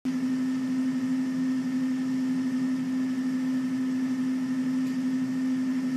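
Safari game-drive vehicle's engine idling, a steady low hum with one constant tone.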